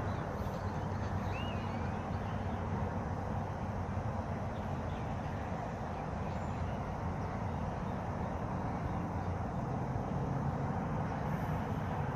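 Steady low rushing noise with a few faint bird chirps over it, the clearest about a second and a half in.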